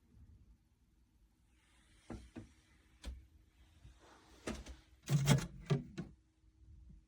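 A series of handling knocks and clicks, with a louder cluster of clunks about five seconds in, over a faint steady hum.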